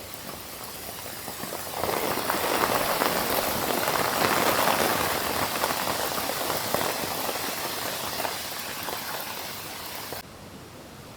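Steady heavy rain pattering, growing louder about two seconds in and cutting off abruptly near the end.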